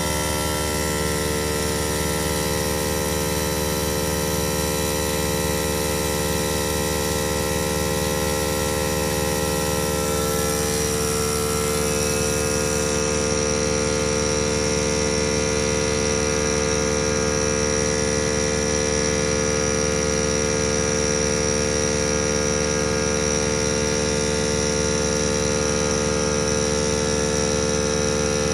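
Steady machine hum made of many stacked tones at an even level, with a slight shift in its upper tones about twelve seconds in.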